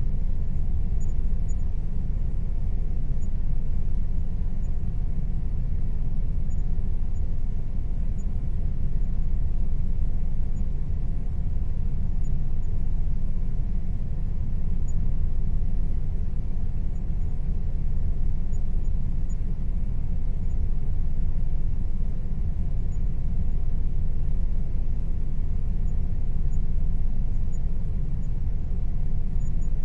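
Air conditioner running steadily: an even, low rumbling hum with a faint steady tone above it.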